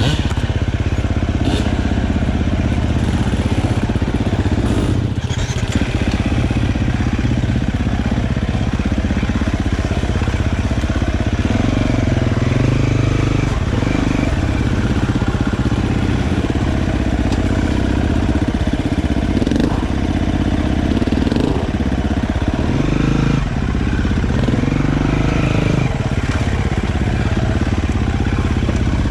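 Dirt bike engine running on a trail ride, its pitch rising and falling with the throttle, with a few short knocks early on.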